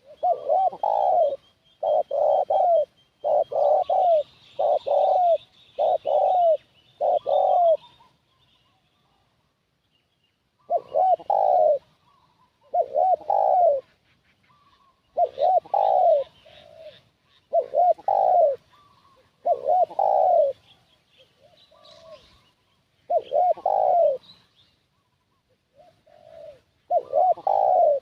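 Spotted dove (tekukur) cooing: a quick run of about seven short coo phrases, a pause of about two seconds, then further coos roughly every two seconds.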